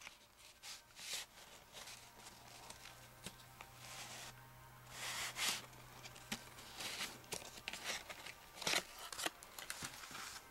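Paper and cardstock rustling and sliding in short, irregular swishes with a few light taps, as the layers of a paper explosion box are handled. A faint low hum sits underneath for a few seconds in the middle.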